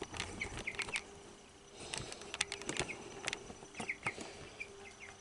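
Young chickens giving a few short soft peeps, among scattered clicks and scratches of feet and beaks on the coop floor. A faint steady hum lies under them.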